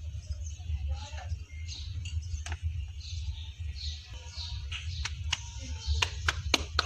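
Steady low rumble with faint high bird chirps scattered through it, then a few sharp clicks near the end.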